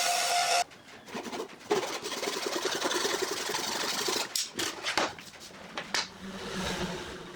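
A power tool running with a steady whine cuts off about half a second in. It is followed by irregular scraping and rubbing, with several sharp knocks, typical of handling wood.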